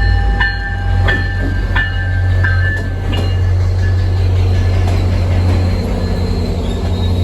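Commuter train running past with a steady low rumble, while a bell dings about every 0.7 s and fades out about halfway through.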